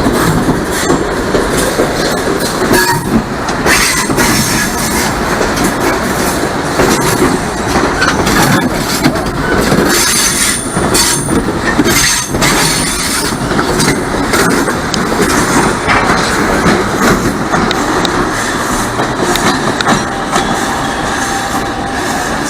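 CNR 3000-series electric suburban train running along the track, wheels clacking over rail joints with some wheel squeal. The noise is loud and steady, with irregular sharp clicks throughout.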